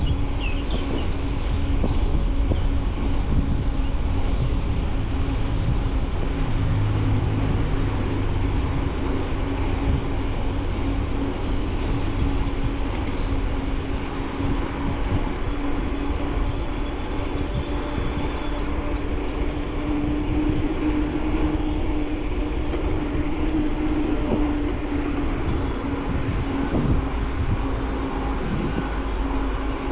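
Bicycle rolling steadily along a paved path, heard through a handlebar-mounted camera: a constant low rumble with a steady hum.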